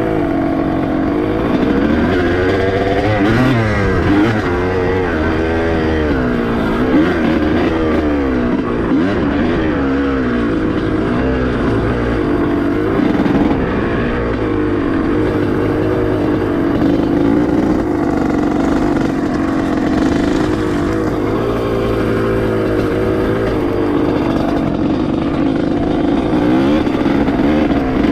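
Dirt bike engine being ridden, its pitch rising and falling over and over as the throttle is worked and the gears change.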